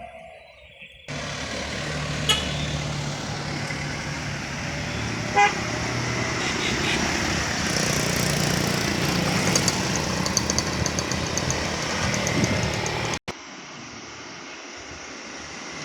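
Heavy vehicles, a train and loaded trucks, running loud under full throttle, with two short horn toots in the first few seconds. The sound drops off abruptly near the end.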